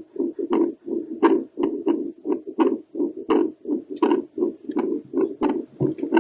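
Human heartbeat picked up by a home Doppler probe on the chest. It is a steady run of loud pulses, a little under one and a half a second, with a softer pulse between each.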